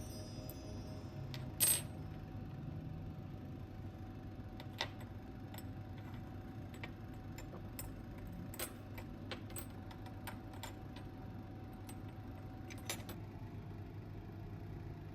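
Light clinks and taps of small glass decor pieces being handled and set down. The sharpest comes about two seconds in and a few quieter ones are spread after it, over a low steady room hum.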